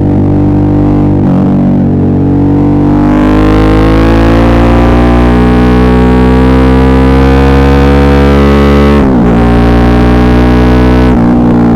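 Suzuki V-Strom 650's V-twin engine pulling under throttle, its pitch climbing steadily for several seconds, then dropping sharply about nine seconds in at a gear change, with another brief dip near the end.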